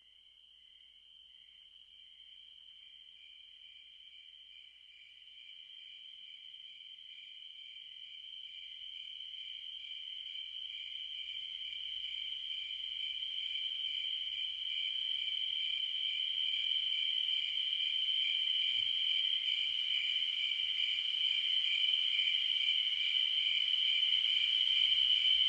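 Crickets chirping in a steady high trill with a pulsing chirp beneath it, fading in from near silence and growing steadily louder.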